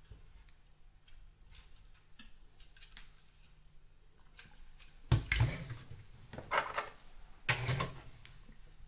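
Plastic LEGO pieces being handled, with faint clicks and then three louder bursts of handling noise about five, six and a half and seven and a half seconds in.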